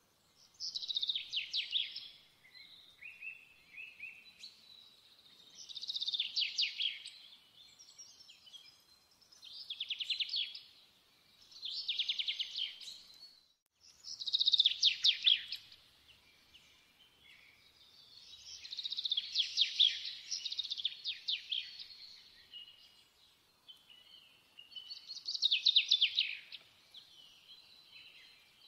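A songbird singing: high, fast trilled phrases of one to three seconds, repeated every few seconds.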